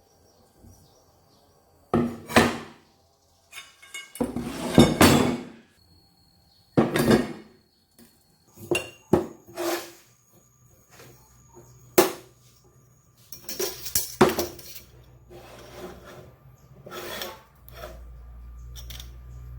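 Hard objects being handled and set down: a string of irregular knocks, clinks and short scrapes, about a dozen in all, with a faint low hum coming in a little past the middle.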